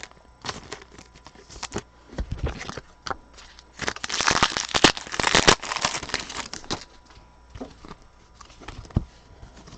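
Trading card pack wrapper crinkling and tearing as it is opened by hand, with scattered light crackles and ticks. The crinkling is densest and loudest in the middle.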